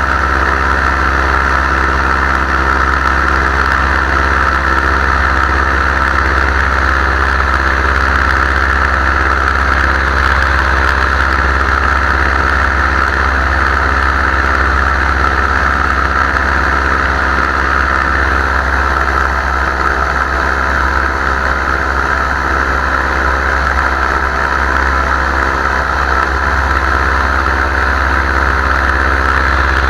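Powered paraglider's engine and propeller running at a steady throttle in flight, a constant loud drone.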